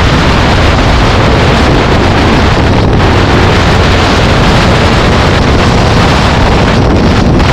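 Heavy wind buffeting on the microphone while riding at speed, over steady engine and road noise. The noise is loud and constant.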